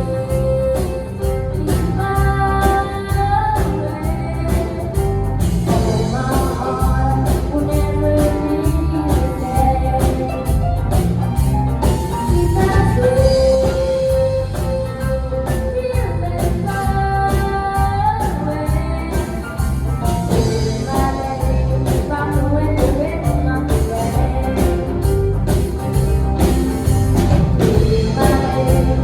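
A singer performing a rock-and-roll song over an instrumental backing with a steady beat, holding long notes on some lines.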